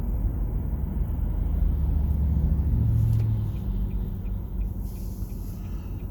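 Car engine and road noise heard from inside the moving car: a steady low rumble whose engine note shifts about halfway through, with faint, evenly spaced ticks in the second half.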